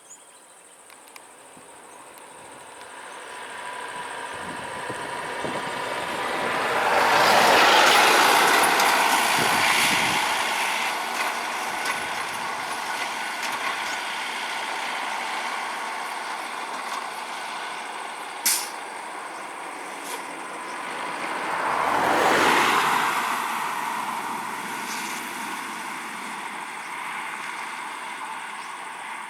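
Two heavy road vehicles pass one after the other, each approaching, passing loudly and fading away. A brief sharp high sound comes between the two passes.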